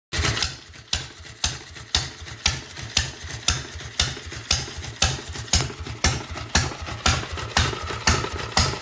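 Bernard D1 single-cylinder petrol stationary engine running slowly, with a sharp beat about twice a second and lighter clattering between the beats.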